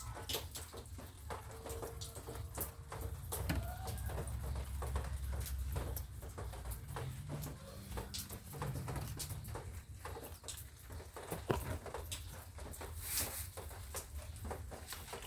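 Rain pattering: many separate drops ticking irregularly.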